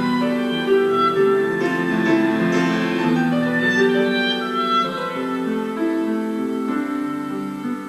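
Music from an SATB choral piece: held chords with piano, the notes changing every second or two.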